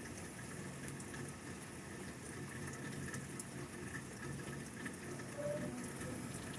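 Steady rain falling during a thunderstorm, with scattered drops ticking sharply on nearby surfaces.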